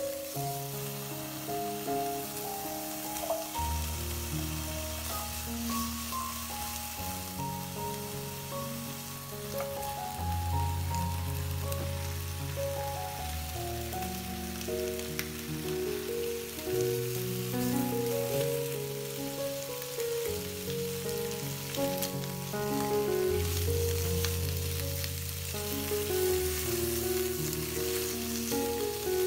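Pork belly and pieces of dried golden pompano sizzling as they fry in a nonstick frying pan, with a faint scrape of stirring. Background music with slow held bass notes plays over it.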